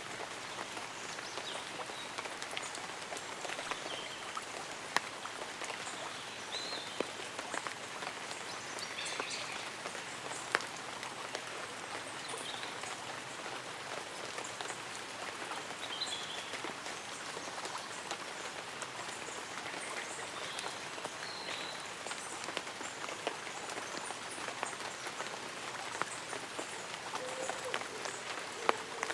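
Light rain pattering on leaves and an umbrella, a steady hiss dotted with individual drops ticking. Faint high bird or insect chirps come now and then, and a low wavering call sounds near the end.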